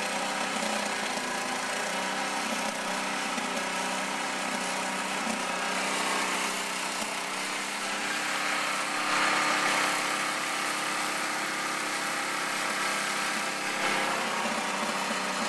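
Snowblower's small gasoline engine running steadily, a little louder around nine seconds in.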